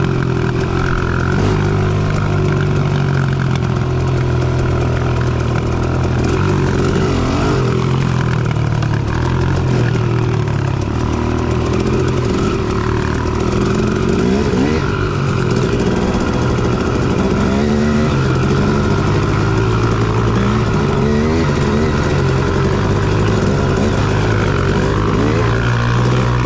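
Dirt bike engine running under way, its pitch rising and falling repeatedly as the throttle is worked.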